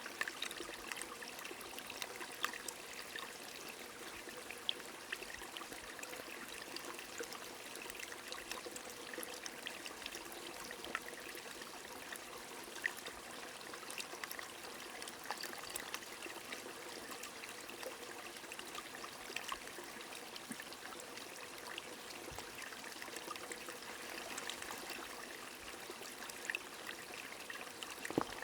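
Small stream running steadily, with light rain: many scattered drops tick sharply over the even rush of the water, which has little deep rumble.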